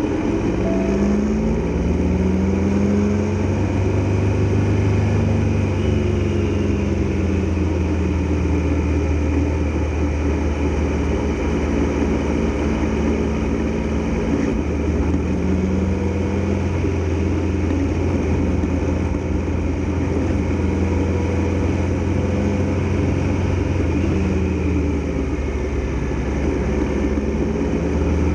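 Triumph Tiger Explorer XRx's three-cylinder engine running while riding, its pitch rising and falling several times with the throttle, over a steady rush of wind and road noise.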